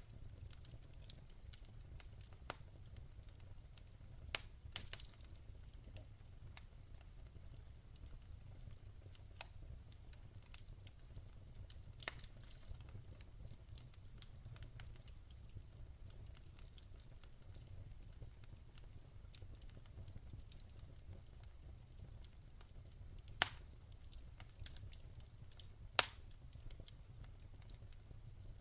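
Wood campfire crackling, with scattered small pops and two sharper pops near the end, over a low steady rumble.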